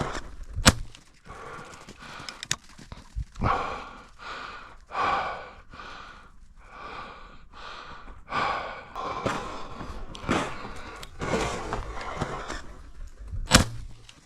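A person walking through snow: crunching footsteps and heavy breathing, with a sharp knock about a second in and another near the end.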